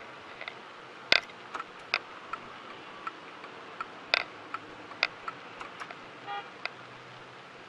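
Irregular sharp clicks and knocks over a steady background noise, with a brief pitched beep near the end.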